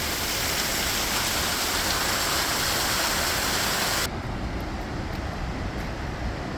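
Steady rushing of falling water from a waterfall, a full even hiss, which cuts off abruptly about four seconds in to a duller, quieter low rumble.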